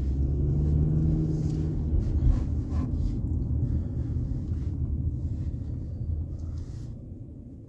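Low rumble of a car's engine and tyres heard from inside the cabin while driving, steady at first and growing quieter over the last couple of seconds.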